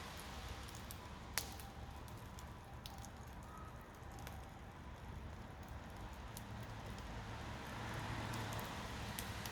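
Wood campfire crackling faintly, with scattered pops and snaps and one sharper snap about a second and a half in.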